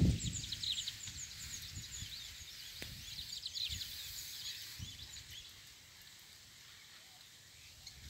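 Small birds chirping in quick, high, short notes, busiest over the first few seconds and thinning out toward the end.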